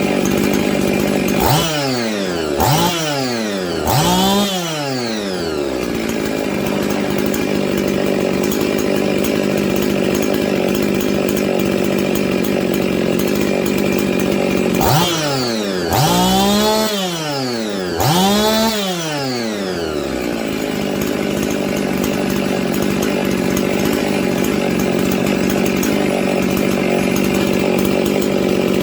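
Husqvarna 55 two-stroke chainsaw idling steadily without cutting off. It is revved three times in quick succession a couple of seconds in, and three more times around the middle; each rev rises and falls in pitch before settling back to idle.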